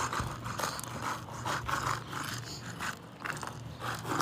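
Old asphalt shingles being pried loose with a roofing snake: irregular short scrapes and crackles, two or three a second, as the tool breaks the seal under the brittle shingles.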